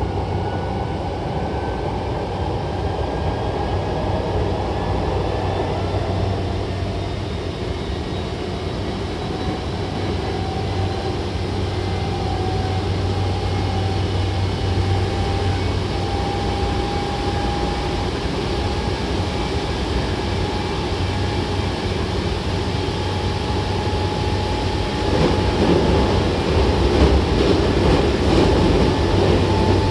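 Hankyu Kobe Line electric train heard from inside the car while running between stations: steady rumble of wheels on rail, with a motor whine that slowly rises in pitch. The rumble grows louder about 25 seconds in.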